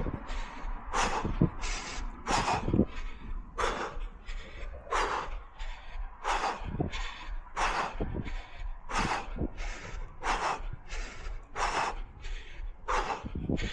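A runner breathing hard and rhythmically mid-run, close to the microphone: alternating in- and out-breaths about every two-thirds of a second.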